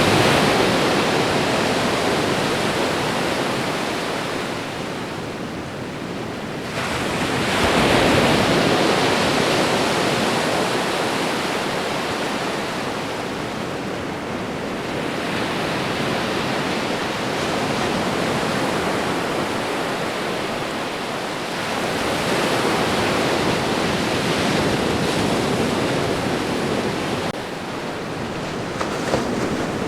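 Ocean waves breaking and washing onto a shore, a continuous rushing surf that swells and ebbs every several seconds, with one stronger surge about eight seconds in.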